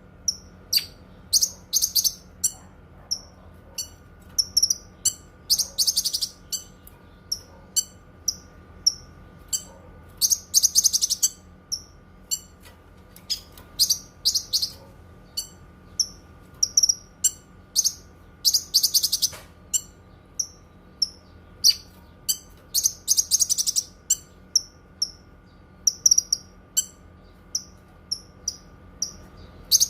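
Cucak kinoi songbird singing: short, high chirps repeated about twice a second, broken every few seconds by quick rapid runs of notes. A faint steady hum lies underneath.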